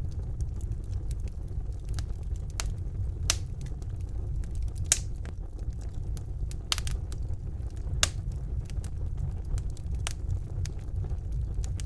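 Wood fire burning in a fireplace: a steady low rumble of the flames with irregular sharp crackles and pops, the loudest about five and eight seconds in.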